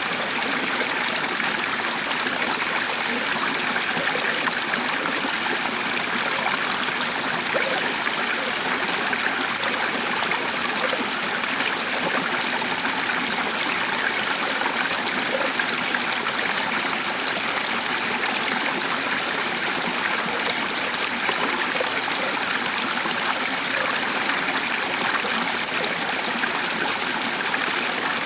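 Running water of a small stream, a steady, even rush and trickle with no breaks.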